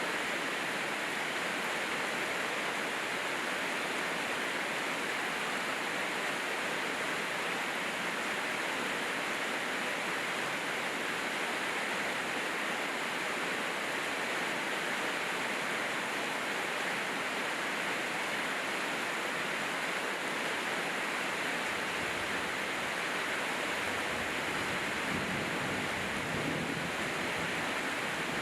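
Steady, even hiss of heavy rain falling, with no single drops standing out. A faint low rumble joins in during the last few seconds.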